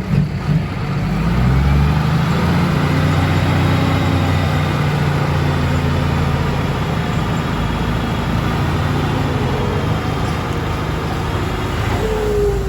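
Diesel engine of a ten-wheel dump truck running under load, rising in pitch about a second in and then pulling steadily, with a falling whine near the end.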